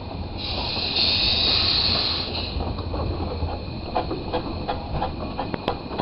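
Narrow-gauge steam train running, with a steady low rumble and scattered knocks. A loud hiss of steam starts about half a second in and lasts about two seconds.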